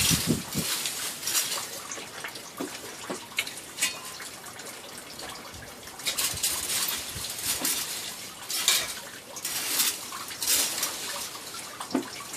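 Bursts of rustling and scraping, a second or so each and repeated irregularly, with a few light clinks, as the chicken coop's bedding and gear are worked.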